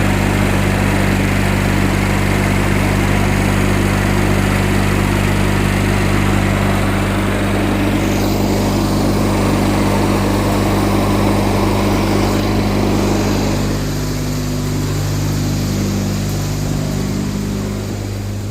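Kohler Magnum 18 engine on a Craftsman riding mower running steadily, easing a little quieter about three-quarters of the way through. It runs smoothly on its newly fitted fuel pump.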